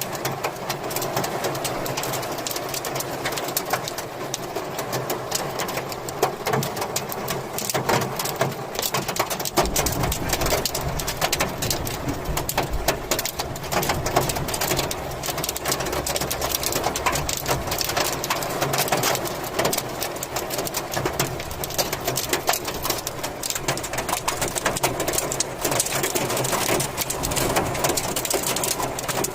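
Rain and hail drumming on a surface: a dense, continuous patter of sharp hits. A low rumble runs underneath for several seconds about a third of the way in.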